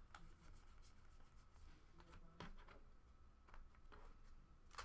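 Faint soft slides and light taps of trading cards being flipped through by hand.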